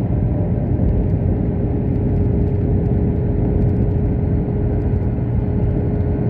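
Engine running steadily: a continuous low rumble with a faint constant hum over it.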